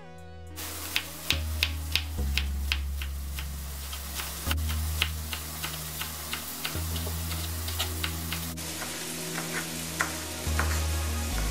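Chef's knife chopping green onions on a bamboo cutting board: irregular sharp taps, a few of them louder, over a steady hiss. Background music with a low bass line plays underneath.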